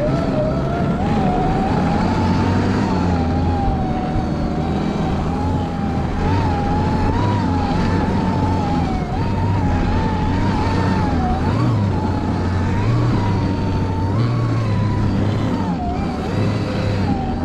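Electric snowbike on a track snow kit, its motor whining steadily with the pitch wavering up and down as the throttle changes, over a dense low running noise from the drivetrain and track.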